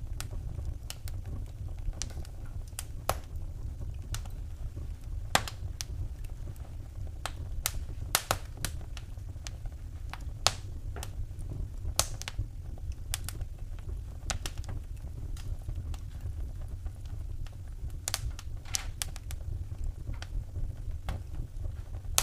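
Wood fire burning in a fireplace, crackling with irregular sharp pops and snaps, some in quick clusters, over a steady low rumble.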